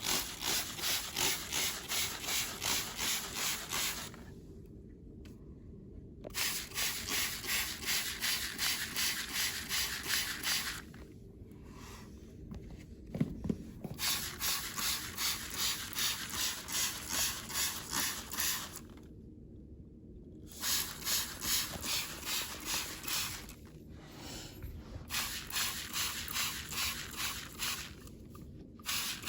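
Water squirted in quick pulses from a squeezed plastic water bottle and spattering onto a model landscape as simulated rain, about three squirts a second, in runs of several seconds with short pauses between.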